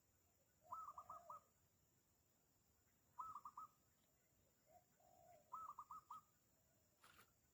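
Spotted doves cooing faintly, a short phrase of several notes repeated three times about every two and a half seconds. A brief click near the end.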